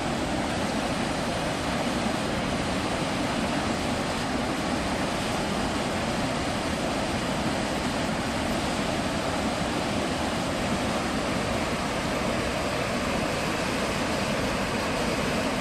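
Waterfalls and rapids on the Mekong, rushing water making a steady, even noise.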